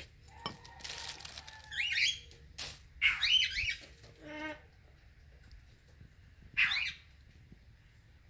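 Several short, pitched bird chirps, spaced a second or more apart, over a faint steady background. About a second in there is a brief scratching noise, like loose soil being dug.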